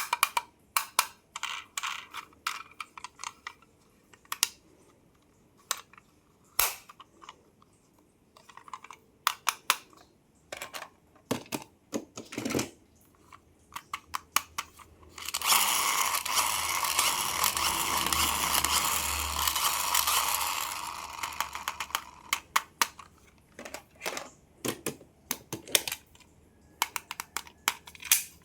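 Toy packaging and plastic toy cars being handled: scattered sharp taps and clicks throughout. Roughly halfway through comes a continuous rustling or scraping stretch of about five seconds, then the tapping picks up again.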